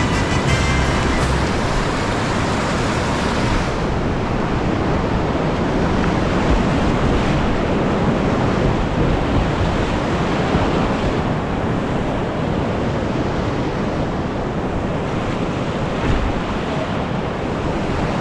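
Whitewater creek rapids rushing, a loud steady wash of water noise.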